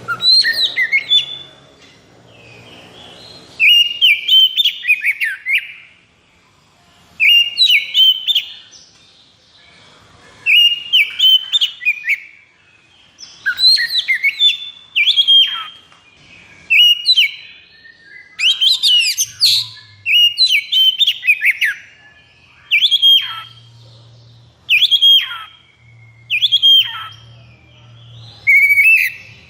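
Oriental magpie-robin (kacer) singing: loud phrases of whistled notes and chattering trills, each one to two seconds long, repeated about a dozen times with short pauses between them.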